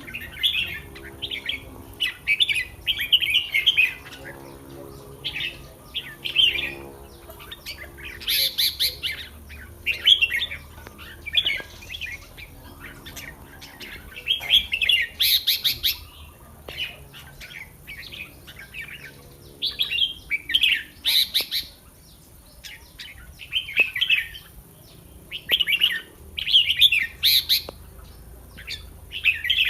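Red-whiskered bulbul singing: short whistled song phrases, one every second or two.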